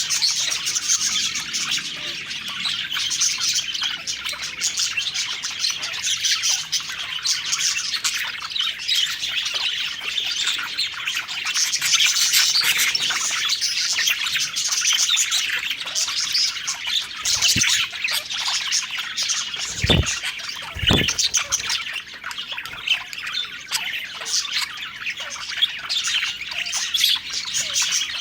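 A flock of budgerigars chirping and warbling continuously, many calls overlapping. Two low thumps sound about a second apart, roughly two-thirds of the way through.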